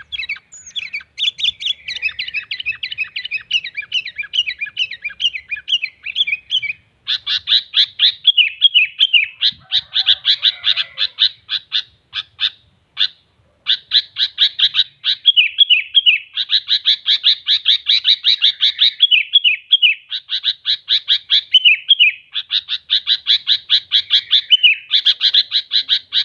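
Sooty-headed bulbul (kutilang) singing loudly in long runs of fast, repeated chattering notes, mixing in imitations of other songbirds, with a brief pause about 12 seconds in.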